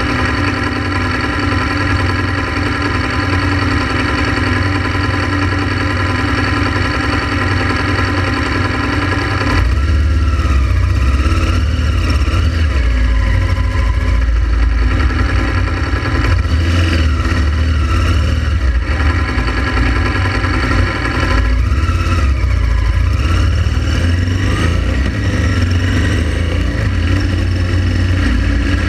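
Honda Transalp XL700V's V-twin engine running at a steady speed. About ten seconds in, a heavy deep rumble takes over and the sound gets somewhat louder.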